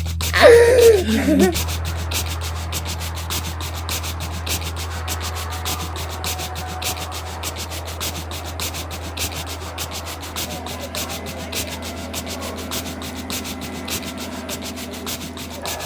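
Rhythmic scrubbing noise at about three strokes a second over a steady low hum, slowly fading. A tone glides downward about half a second in.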